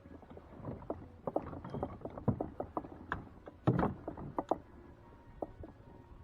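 Irregular knocks, taps and clatter of gear being handled on a kayak, thickest in the middle, with one heavier knock just before four seconds in.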